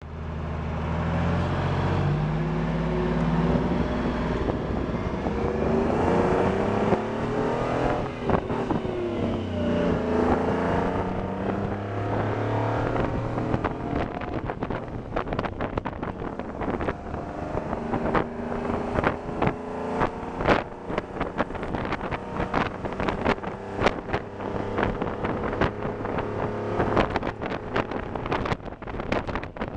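A Seagrave fire engine's Detroit Diesel 6V53 two-stroke V6 diesel running, its pitch stepping and gliding up and down as the engine speed changes. From about halfway through, many sharp knocks and clicks and a rushing noise are heard over it.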